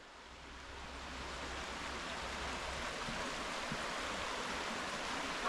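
Chagrin River rushing: a steady hiss of flowing water that swells in over the first second or so and then holds even.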